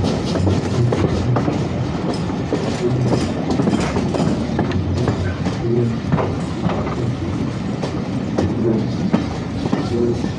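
Steam-hauled heritage train running over jointed track and pointwork, heard from the coach: a steady rumble with irregular clicks of the wheels over rail joints.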